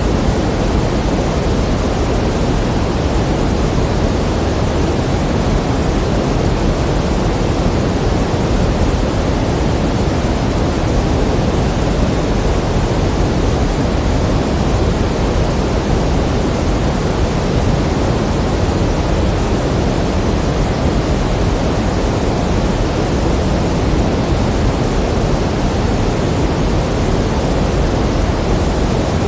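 Pink noise: a steady, even hiss, fuller in the low end than in the high, with no change throughout.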